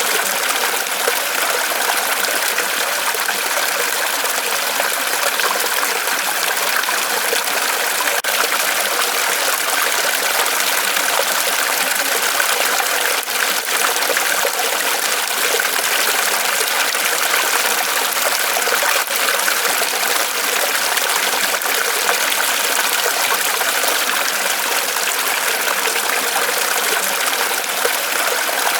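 Water trickling and splashing steadily in a small waterfall spilling from a tree trunk.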